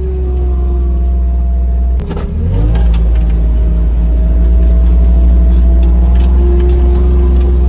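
Vehicle engine running while driving on rough farm ground, with a heavy low rumble. About two seconds in it drops briefly, then revs up and holds a steady, louder pace.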